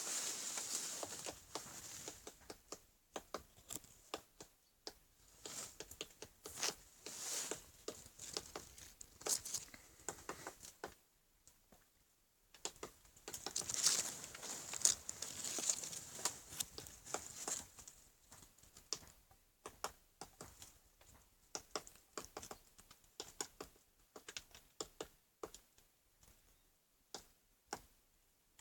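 Woodpecker pecking at split bird cherry wood: irregular sharp taps throughout, with louder bouts of crackling near the start and about halfway through.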